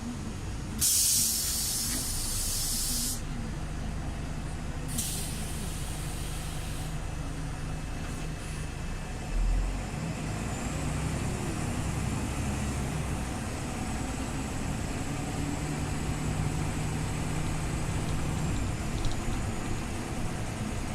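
Scania OmniLink city bus's compressed-air system hissing loudly twice: a burst of about two seconds a second in, then a shorter one around five seconds in, over the steady running of the bus engine. A low thump follows around nine seconds in.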